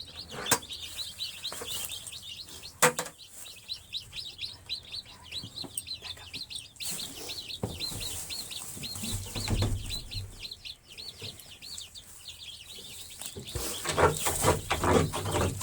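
A brood of baby chicks peeping continuously, many short high chirps overlapping. A sharp knock comes about three seconds in, and there is more bumping and rustling near the end.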